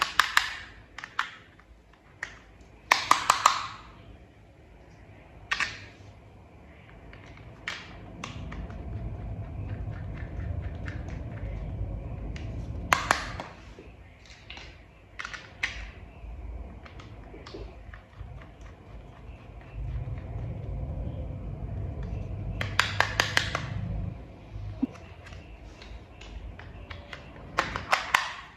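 Plastic toy vehicle parts being handled and fitted together: sharp clicks and taps, several short quick runs of clicks, and low rubbing noise in between.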